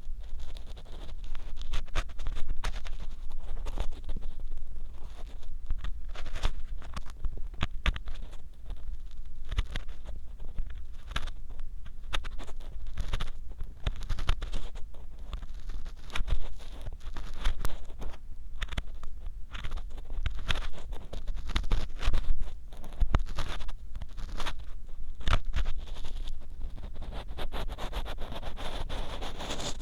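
Ear pick scraping and rubbing inside the silicone ear of a 3Dio binaural microphone: close, loud, irregular scratchy strokes and clicks with a deep rumble, as in a real ear cleaning.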